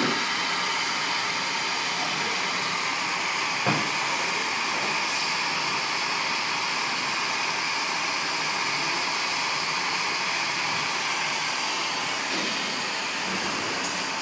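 Steady hiss of blowing air, with one short click about four seconds in.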